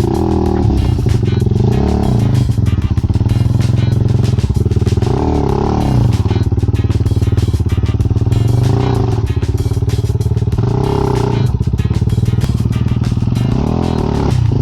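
Off-road dirt bike engine working at low revs, with the throttle opened and eased off every two to three seconds so the engine note swells and falls back.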